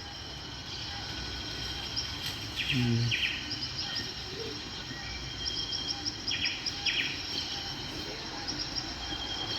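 Outdoor ambience with small birds chirping: short, repeated chirps and trills over a steady background hiss. A brief voice sounds faintly about three seconds in.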